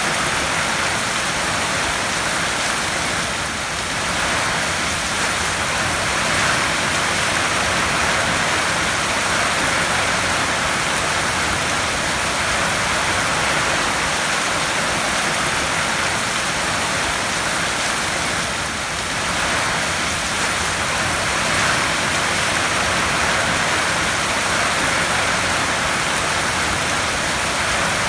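Heavy rain falling steadily on a tin roof: a dense, even hiss of drops with no single drops standing out.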